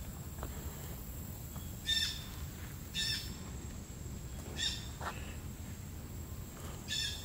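A bird giving a short harsh call four times at uneven intervals, over the soft steps of someone walking a dirt trail.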